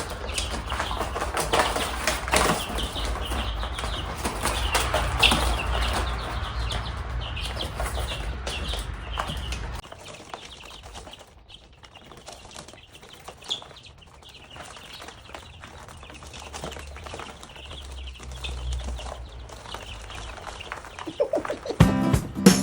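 Chickens clucking and flapping their wings, busiest for the first ten seconds over a low rumble, then quieter and sparser.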